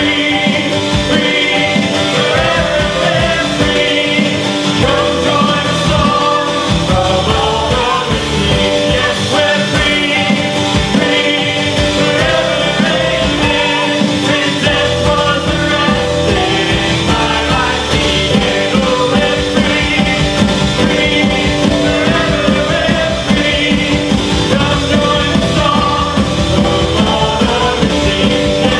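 Live worship band playing a rock-style song with drums, with singing at times.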